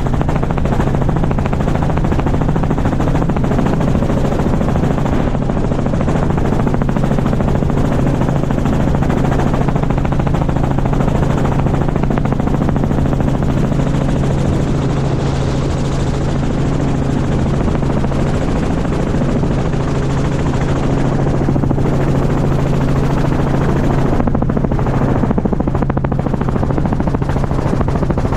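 Helicopter running steadily: a constant low drone with a fast, even rotor beat that neither rises nor falls.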